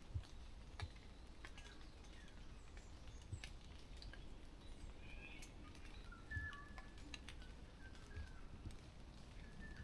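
Faint forest ambience: a few short bird calls, with scattered soft clicks and light taps.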